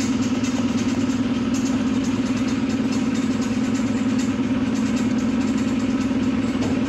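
Steady low engine or motor hum of a train running slowly, heard from aboard, with a constant rushing noise and no change in pitch.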